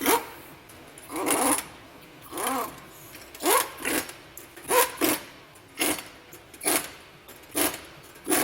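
Worn Ford Explorer strut mount bearing being turned back and forth by hand, giving a gritty, squeaky rasp with each stroke, about once a second; the grinding comes from dirt, dust and sand that got past the bearing's dust cover.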